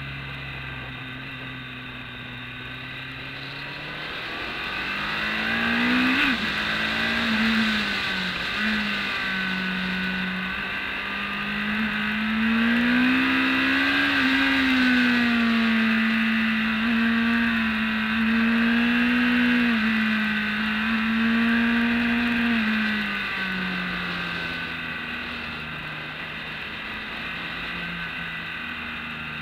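BMW K1200S inline-four sport-bike engine heard from on board at speed: revs climb with quick dips in pitch as it shifts up, hold high and steady through the middle, then fall about two-thirds of the way in as the rider rolls off for a corner and runs at lower revs.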